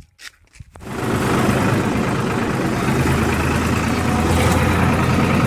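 Tractor's diesel engine running steadily, coming in loud about a second in after a near-silent moment.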